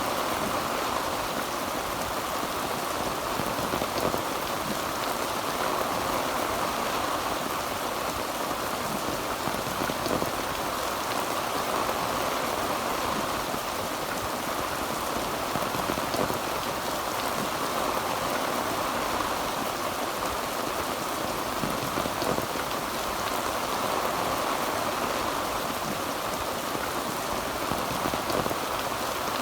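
Heavy rain falling steadily on a tin roof: an even, dense patter of drops that holds at the same level throughout.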